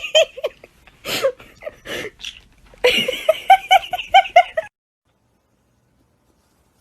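Laughter in quick repeated ha-ha bursts, in three spells, stopping abruptly a little over halfway through, followed by complete silence.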